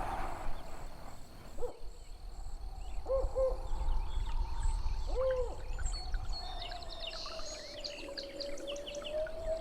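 Jungle ambience of bird calls: a couple of short arched hooting calls about three and five seconds in, then a flurry of quick high chirps in the second half, over a steady droning tone and a low rumble.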